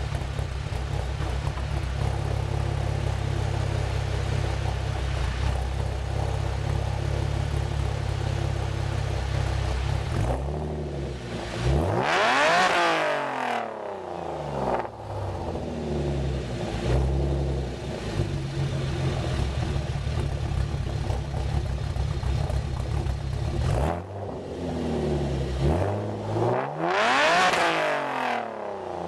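2010 Chevrolet Camaro's 3.6-litre V6 exhaust idling with a ghost-cam tune. It is revved twice, about ten seconds in and again near the end, each rev climbing for about two seconds and then dropping back to idle.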